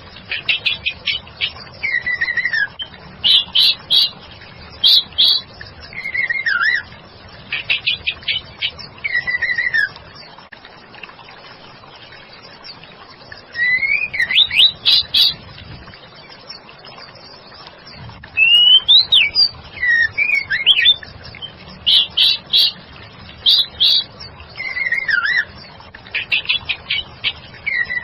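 Female white-rumped shama singing in short repeated phrases: falling whistled notes and quick runs of sharp chattering notes, with pauses of a few seconds between bursts.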